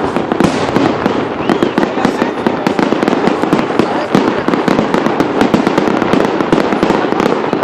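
Fireworks display: a dense, continuous crackle and popping of many bursts going off close together, with a short whistle about one and a half seconds in.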